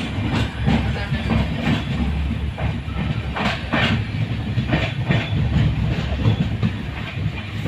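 Train running along the track: a steady low rumble of the wheels with a string of clacks as they pass over rail joints.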